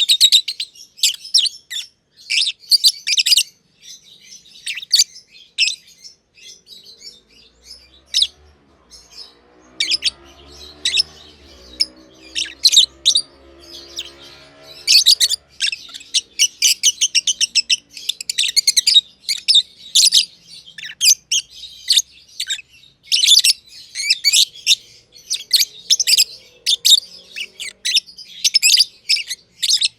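Black-masked lovebirds chirping in quick, high, rapid runs of short calls, with brief pauses between bursts. A low droning sound runs faintly underneath for several seconds around the middle.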